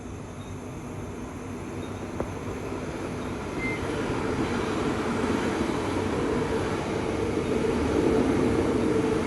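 Commuter train approaching, its rumble and a steady hum growing gradually louder.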